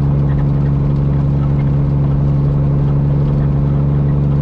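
Peterbilt semi truck's diesel engine running at a steady pitch with a constant low drone.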